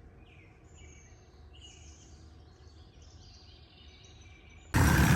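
Faint birds chirping in short scattered calls. Near the end it cuts suddenly to a loud dirt bike engine.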